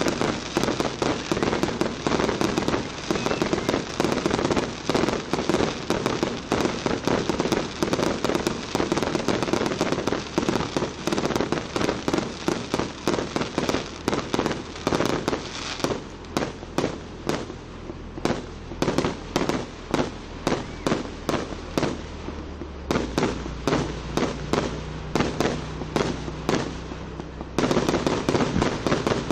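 Aerial fireworks display: a rapid, continuous barrage of bangs and crackles from bursting shells, thinning out after about halfway and picking up again densely near the end.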